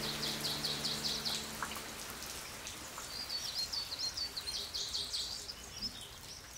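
Steady rain patter with a songbird singing runs of quick, high, repeated notes, twice. The last held notes of soft piano-and-cello music die away in the first two seconds, and the whole sound fades down toward the end.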